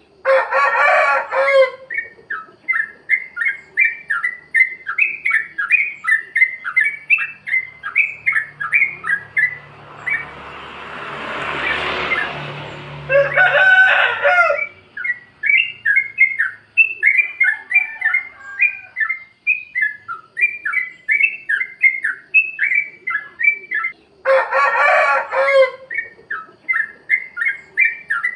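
Sooty-headed bulbul (trucukan) song: a rapid, continuous stream of short bubbly 'plik plok' notes. Three times it is broken by a louder, harsher burst about a second and a half long, and a hiss swells and fades a little before the middle.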